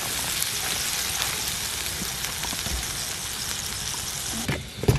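Gopchang (intestines) sizzling steadily in a hot cast-iron skillet on a wood stove. Near the end the sizzle cuts off and a few sharp knocks follow.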